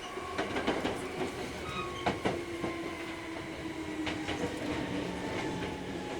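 Hankyu 3300 series electric train running, heard from inside the car: a motor and gear whine that slowly falls in pitch, with the wheels clicking over rail joints every so often.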